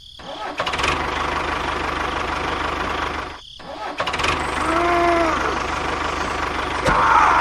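Small motor of a miniature DIY tractor running steadily with an even, rough pulse. It drops out briefly about halfway through. A short rising-and-falling tone sounds over it shortly after.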